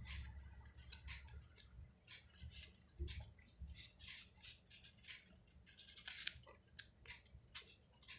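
Coloured paper being handled and folded, giving irregular short crisp rustles and crackles.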